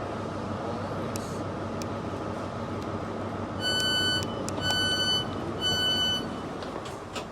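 Train door-closing warning: three pitched electronic beeps, each about half a second long and about a second apart, over the steady rumble of the train.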